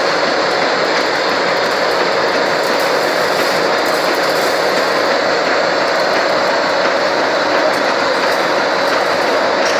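Machine tool running steadily: an even, dense mechanical noise with a steady hum under it.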